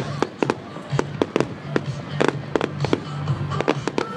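Fireworks display going off: rapid, irregular bangs and crackles of bursting aerial shells, several a second, with music playing underneath.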